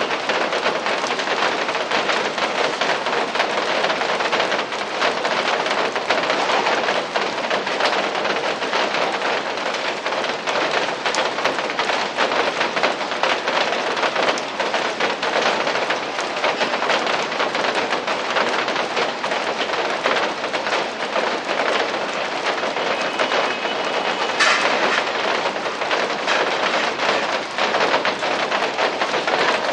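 Steady rain falling, an even hiss made up of many small drop hits, picked up through a security camera's microphone. There is one sharper tick about 24 seconds in.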